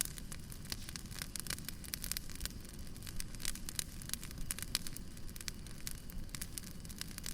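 Firewood burning, with a steady hiss and many irregular crackles and pops.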